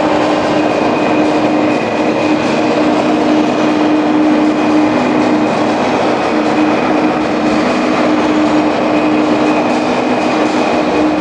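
Steady, loud mechanical running noise like a moving vehicle, with a held low hum under it.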